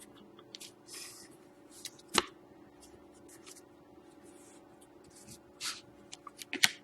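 Trading cards being handled on a table: short sliding, brushing sounds with a sharp click about two seconds in and another near the end, over a faint steady hum.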